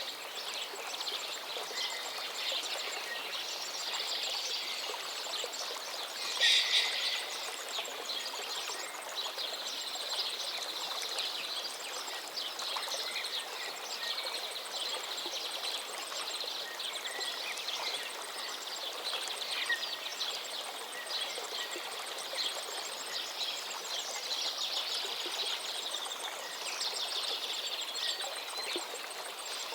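Forest river flowing steadily, with several songbirds singing and calling over it throughout. One loud call stands out about six seconds in, and a fast trill of repeated notes comes around ten seconds in.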